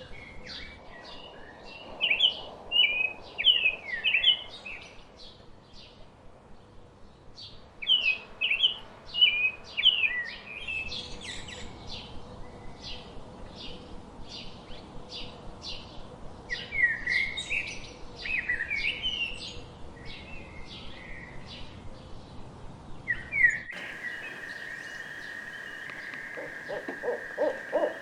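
Songbirds singing: a run of quick short chirps broken by bursts of warbled phrases. About 24 s in, the sound cuts to a barred owl hooting, a rhythmic string of low hoots that grows louder near the end over a steady high tone.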